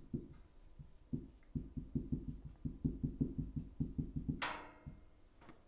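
Quick scratching strokes of handwriting, a run of short strokes from about a second in, ending with one sharper stroke near the end.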